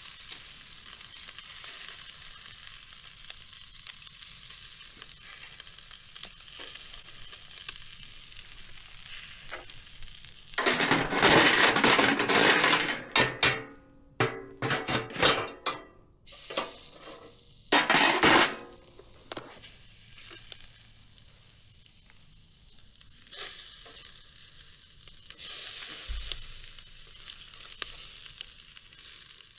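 Food sizzling in a frying pan: a steady hiss, with loud surges of sizzling about ten seconds in and again around eighteen seconds, then a quieter sizzle.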